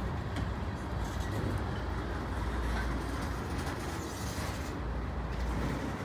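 Freight train of tank cars rolling past at speed: a steady, deep rumble of steel wheels on rail.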